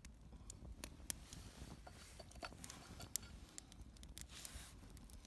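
Small wood fire crackling faintly, with scattered sharp ticks and pops at irregular intervals, the kindling struggling to stay lit.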